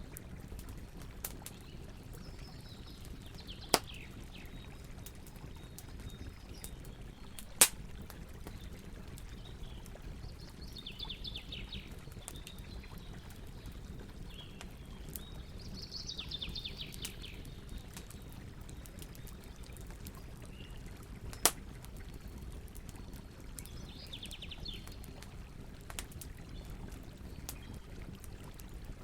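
Campfire crackling over a low steady rumble, with scattered small ticks and three loud sharp pops. Birds sing short, falling, trilled phrases four times in the background.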